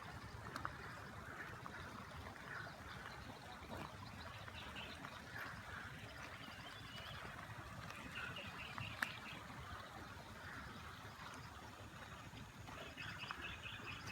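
Outdoor ambience: small birds chirping in short repeated trills at intervals over a steady low rumble, with an occasional faint click.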